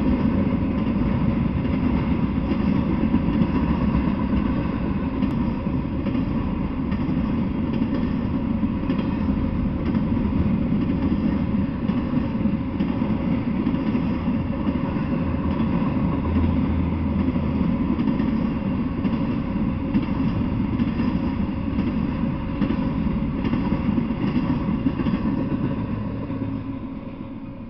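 Intermodal freight train passing close by: the steady noise of its wheels on the rails, which dies away near the end as the last cars go by.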